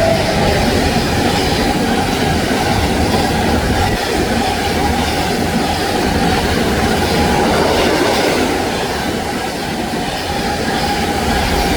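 Train passing close by: a loud, steady rumble of wheels on the rails, with a thin high tone held through it.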